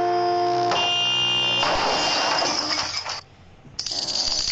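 A loud multi-tone horn holding a chord of steady notes, switching to a different chord under a second in, then giving way to a noisy rush that breaks off briefly about three seconds in and comes back.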